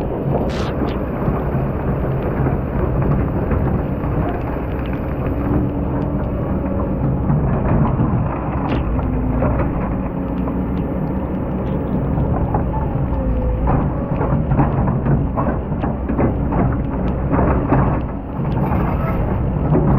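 Excavator's diesel engine running steadily under load, with frequent knocks and scraping from the bucket working in sand.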